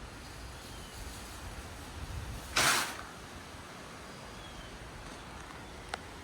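Storm wind blowing steadily, with a low rumble, and one short loud rush of noise about two and a half seconds in.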